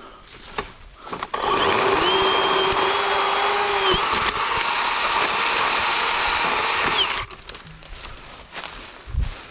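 Worx 40-volt electric chainsaw running: its motor whines up to speed about a second in, runs steadily for about six seconds, and shuts off abruptly.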